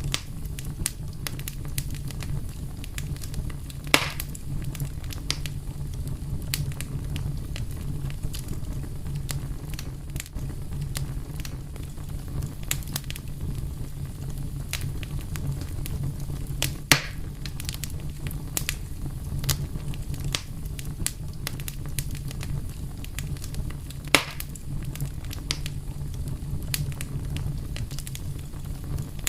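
Wood fire burning with a steady low rumble and frequent irregular crackles, three of them louder pops about 4, 17 and 24 seconds in.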